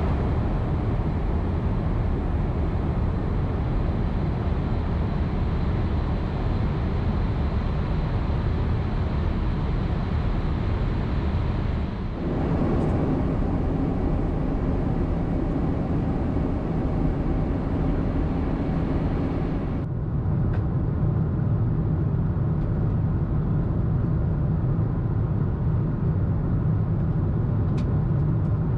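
Steady rumble and hiss of a Boeing 747-8 airliner cabin in cruise, from the engines and the airflow over the fuselage. Its tone shifts abruptly twice, about twelve and twenty seconds in.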